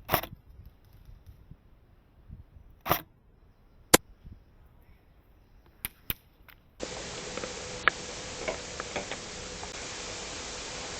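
Five sharp single shots or clicks from an airsoft rifle, spread over about six seconds, the loudest about four seconds in. A steady hiss then comes in suddenly about seven seconds in.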